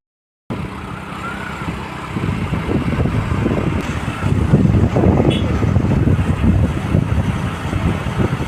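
Motorcycle riding on the road: engine running under a steady rush of wind on the microphone, starting after a brief half-second gap.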